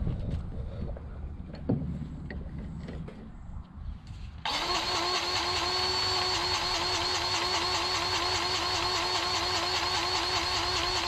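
Light handling noises with a single click, then, about four and a half seconds in, an engine or motor abruptly begins running steadily with an even, regular pulse.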